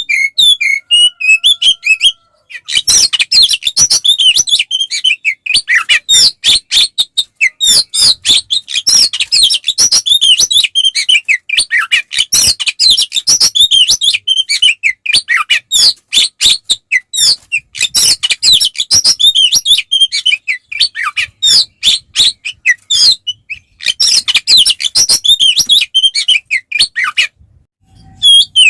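Oriental magpie-robin (kacer) singing a loud, fast fighting song, a dense stream of sharp chirps, whistles and trills with hardly a gap. It breaks off briefly about two seconds in and again shortly before the end.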